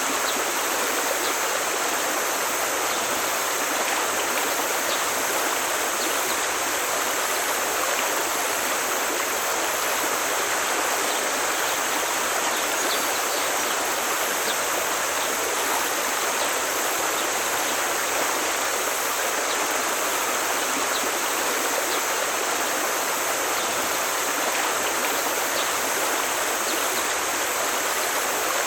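Forest stream flowing: a steady, even sound of running water.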